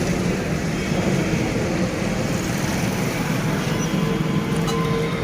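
Steady motor-vehicle engine and road-traffic noise, with a faint, even engine hum that comes in about four seconds in.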